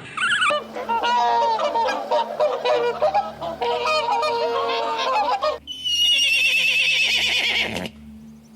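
A flock of birds calling together in a dense chorus of overlapping calls. After about five and a half seconds it cuts abruptly to a different, higher wavering call that lasts about two seconds.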